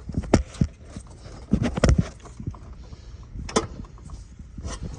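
Irregular clicks and knocks of tools and parts being handled in a car's engine bay, with a loud cluster of knocks about a second and a half in and single sharp knocks later.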